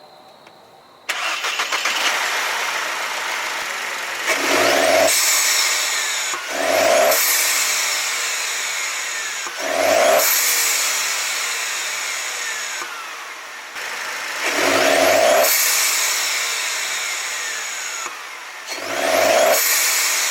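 Mercedes-Benz C250's 1.8-litre turbocharged four-cylinder, fitted with a new cold air intake, starting about a second in and then revved five times. A falling whistle follows each rev as the turbo spools down.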